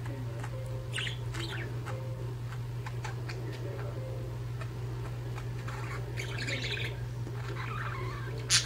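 Budgerigars chirping in short scattered bursts, with a brief, louder sharp sound near the end, over a steady low hum.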